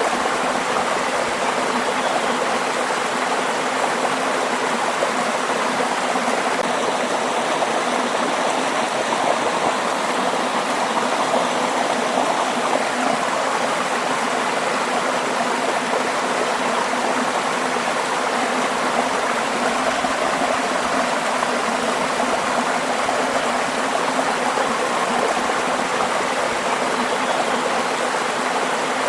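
Waterfall: water falling and rushing, a steady even roar.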